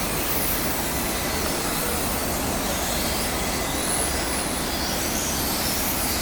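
Radio-controlled racing motorcycles' motors whining as the bikes lap the track, faint high-pitched whines rising and falling in pitch as they pass, over a steady rushing background noise.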